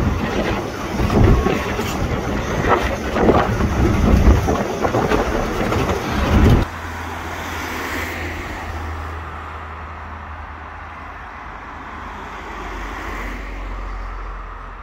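Ffestiniog Railway narrow-gauge train passing close by, its carriages running along the track, with wind gusting on the microphone. About six and a half seconds in the sound cuts to a much quieter, steady low hum.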